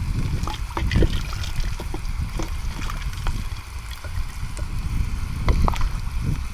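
Gurgling, trickling water with scattered small splashes and a low rumble underneath.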